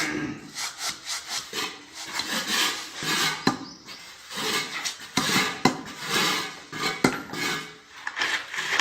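Repeated rough scraping strokes, about one or two a second, with a few sharp clicks in the middle, from hand work on a surface during tile masonry.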